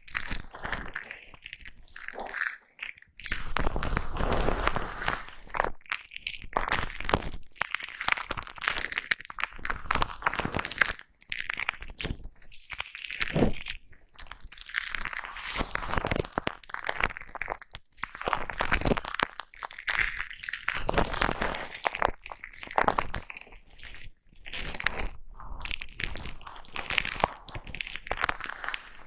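A brush scratching and rubbing over a foam microphone cover held right against the mic, giving irregular crunchy, scratchy strokes with short pauses between them.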